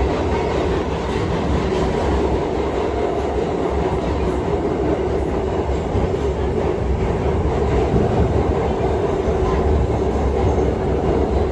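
R68 New York City subway train running steadily at speed, heard from on board: a continuous rumble of wheels and running gear.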